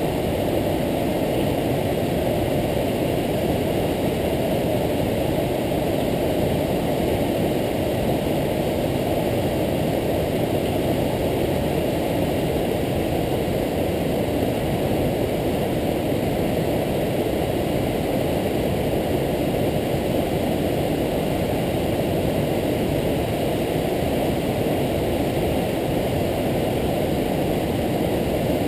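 Waterfall: a steady, unbroken rush of falling water, heaviest in the low and middle range.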